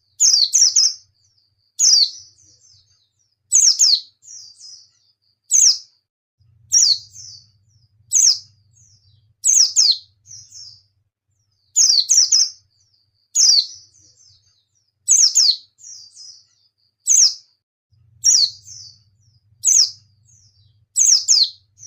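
White-eye (pleci) calling over and over: each call is a sharp, high downward-sliding note followed by a fainter short twitter, repeated about every one and a half to two seconds.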